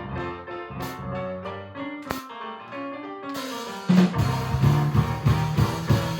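Live band playing a song's instrumental intro: keyboard chords at first, then the drum kit comes in a little past halfway with cymbals and a steady kick drum.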